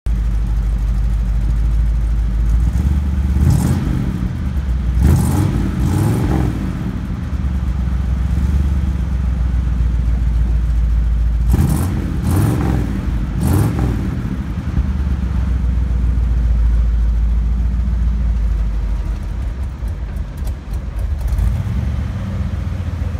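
1961 Chevrolet Impala's engine idling steadily, revved in short blips several times, the revs rising and falling about three to six seconds in and again around twelve to fourteen seconds in.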